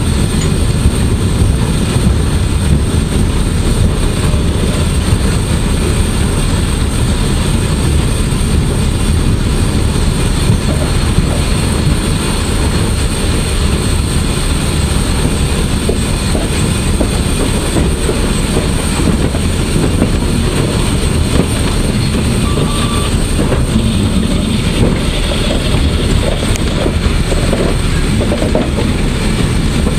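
PKP Ol49 steam locomotive no. 59 under way, heard from its footplate: a steady, loud din of the running engine with the wheels clattering over the rail joints.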